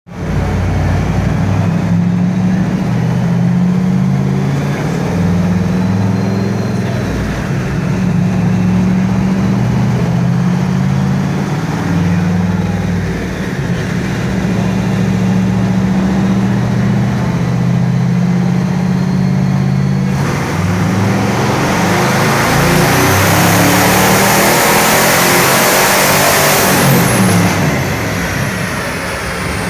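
Twin-turbo LS1 5.7-litre V8 in a Mazda RX-7 running on a dyno, first at a steady engine note, then about two-thirds of the way in opening up into a loud full-throttle pull with a strong rushing hiss. Near the end the revs fall away and the engine note drops.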